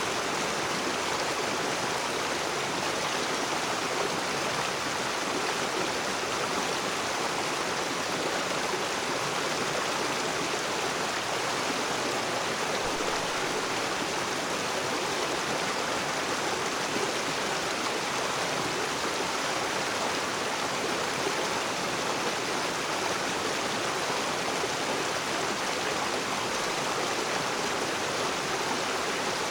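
Rocky river water flowing and rushing over stones, a steady, even wash of water noise.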